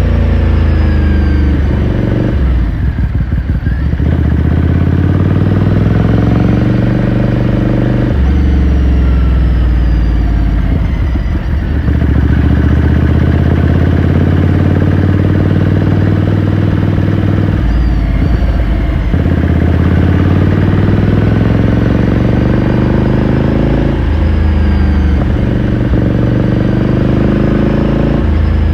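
2018 Ducati Scrambler Sixty2's air-cooled 399 cc L-twin engine and exhaust under way. The engine note climbs in pitch several times, each climb broken by a brief drop as the throttle closes between pulls.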